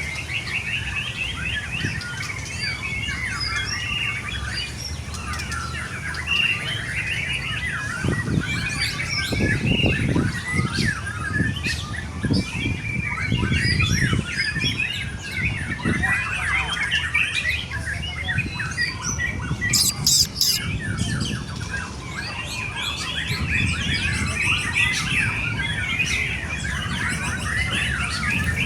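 Young white-rumped shama (murai batu) singing a continuous, rapidly varied warbling song of quick chattering and whistled phrases. A low rumble sits beneath it through the middle of the stretch.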